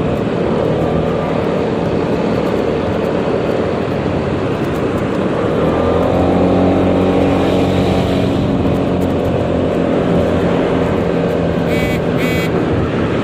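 Riding a Yamaha XMAX 300 scooter in traffic: engine running under wind and road noise, with a steadier engine drone from about six to ten seconds in. Two short beeps near the end.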